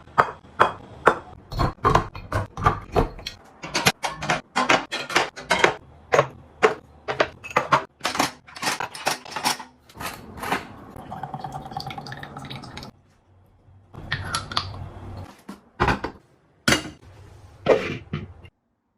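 Rapid clinking and clattering of containers, lids and kitchenware being handled and set down during fridge restocking. A steadier, noisier stretch comes in the middle, and the sound stops abruptly near the end.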